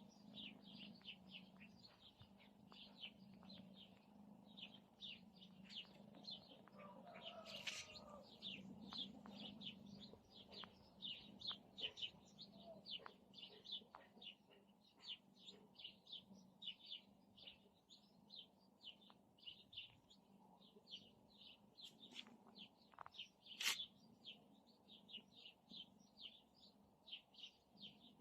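Faint bird chirping: short, high chirps repeating two to three times a second, over a low steady hum, with a sharp click about three-quarters of the way through.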